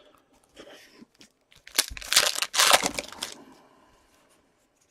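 Trading-card pack wrapper being torn and crinkled in the hands: faint rustling, then a loud stretch of crackling about two seconds in that dies away.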